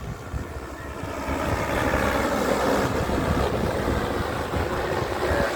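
Multirotor agricultural spray drone's propellers humming steadily, growing louder about a second and a half in.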